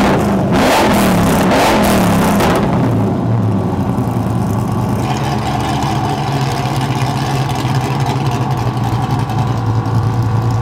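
Car engine blipped through its aftermarket exhaust: it revs up and falls back over the first two and a half seconds or so, then settles into a steady idle.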